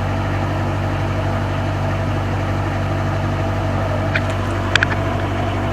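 Truck's diesel engine idling steadily, with a few short sharp clicks about four to five seconds in.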